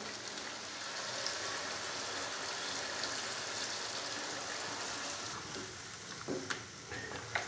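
Chicken and spices sizzling in a kadai as tomato paste is poured in, a steady hiss. A few light spatula scrapes and taps sound against the pan near the end.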